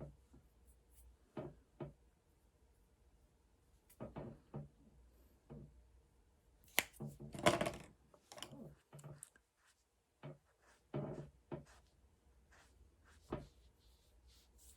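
Scattered small taps, clicks and knocks of objects being handled at close range, busiest about halfway through.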